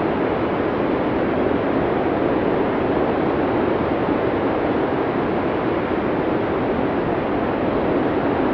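Blizzard wind: a steady, dense rush of storm wind with no breaks or distinct gusts, its weight in the low and middle range.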